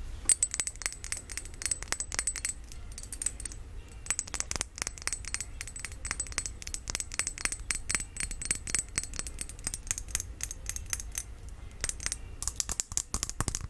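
Rapid light tapping on a glass perfume bottle, many taps a second with a thin high ring, easing briefly about four seconds in and again near the end.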